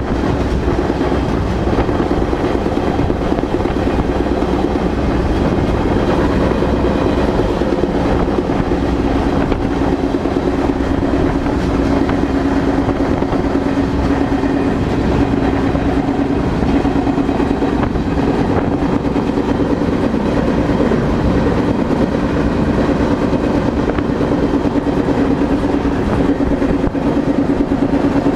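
Freight train rolling steadily: a continuous rumble of wheels on rail with a steady humming tone through it.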